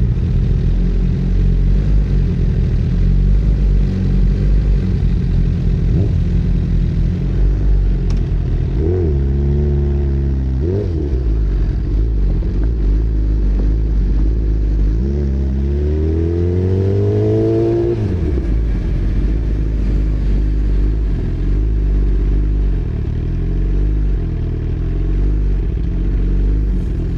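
A road vehicle's engine running at speed under a heavy, steady low rumble of wind and road noise. The engine pitch rises and falls twice near the middle, as with revving through bends.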